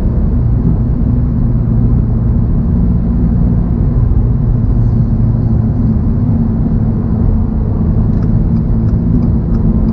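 The 2024 Toyota GR86's 2.4-litre flat-four engine running steadily, a constant low drone with road noise.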